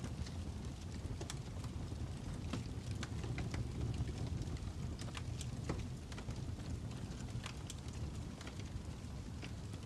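Fire crackling: a steady low rumble of flames with irregular sharp pops and snaps scattered throughout.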